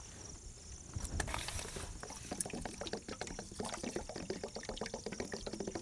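Toor dal being put to soak in a pot: a dense patter of small clicks with pouring, starting about a second in.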